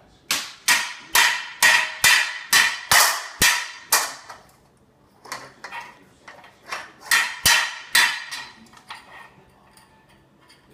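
Repeated sharp banging on a hard, resonant object, each hit ringing briefly. A quick run of about nine hits, roughly two a second, is followed after a short pause by a few more scattered hits.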